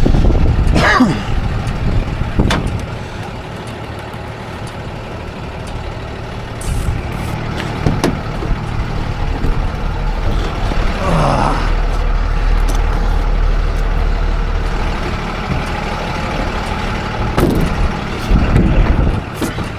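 Tow truck engine running steadily, its note stepping up a little about six and a half seconds in, with a few brief squeaks and knocks on top.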